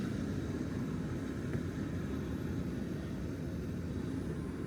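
Steady low rumbling noise with no distinct events, the kind of constant background hum heard around a running HVAC air handler.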